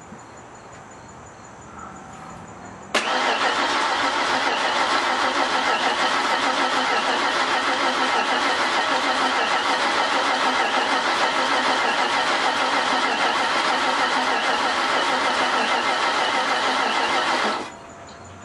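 1991 Ford Crown Victoria's V8 cranking on the starter motor for about fifteen seconds without firing, its ignition coil disconnected: a priming crank to spin the oil pump and build oil pressure after four years of sitting. It starts abruptly about three seconds in and stops abruptly near the end.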